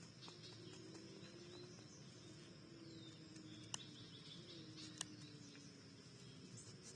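Faint backyard ambience: a steady high insect trill, with scattered faint bird chirps. Two sharp clicks come about a second and a quarter apart near the middle.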